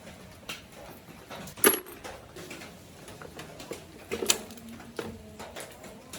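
Irregular clicks and clinks of hand tools and metal parts being handled during motorbike repair work, with two louder sharp knocks, one under two seconds in and one about four seconds in.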